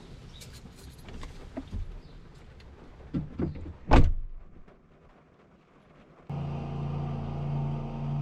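Knocks and clicks of a camera being handled and set in a truck cab, with a loud door slam about four seconds in. From about six seconds a steady engine hum starts abruptly and runs on.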